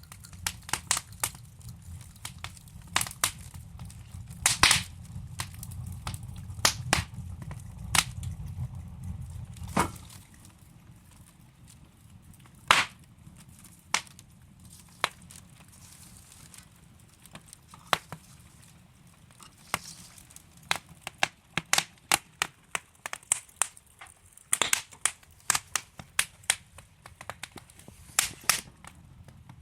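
Wood fire crackling: burning logs give off irregular sharp pops and snaps, a few of them loud, over a low rumble of the flames that fades out about ten seconds in.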